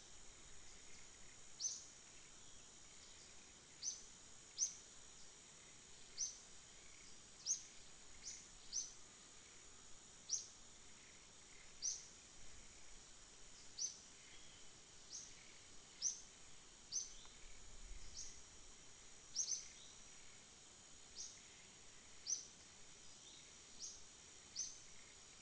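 A small bird chirping faintly: short high chirps, roughly one a second, over a steady high hiss.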